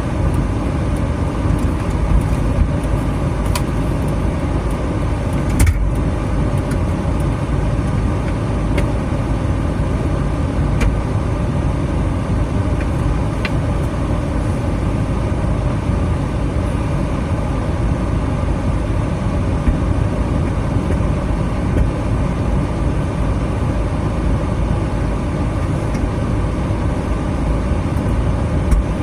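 Steady engine and road noise inside a moving minivan's cabin, with a few faint clicks.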